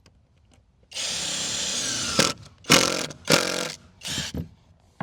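Power drill running steadily for about a second, then in three short bursts, driving screws into wood.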